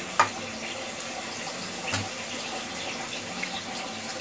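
Chopped onions and ginger-garlic paste sizzling in hot oil in a wok: a steady hiss, with a few light knocks of the spatula against the pan.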